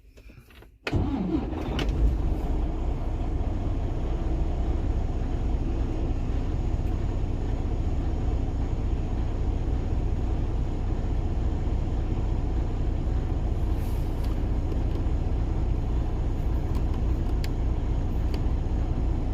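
Detroit diesel engine of a Freightliner semi truck cranking and starting about a second in, then idling steadily with a low rumble.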